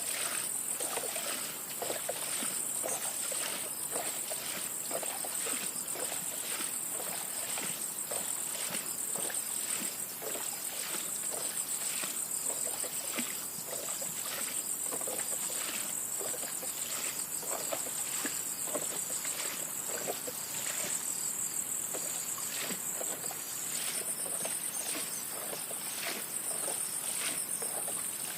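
A steady, high-pitched, pulsing insect chorus, with frequent irregular splashes and trickles of water beneath it.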